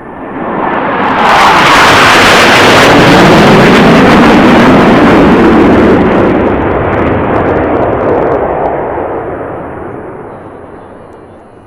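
A military jet flying past low and fast: very loud jet noise swells in about a second, holds for several seconds, then fades away with its pitch falling as the jet passes.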